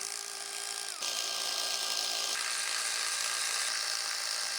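A power tool running steadily, loosening one of the last bolts; about a second in it gets louder and its pitch dips slightly.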